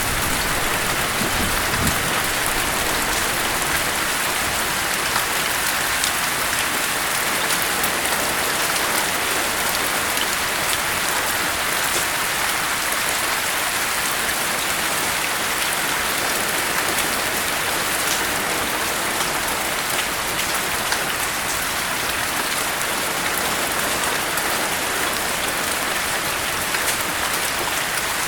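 Steady, heavy rain falling in a dense, even hiss. The low rumble of a thunderclap dies away in the first two seconds.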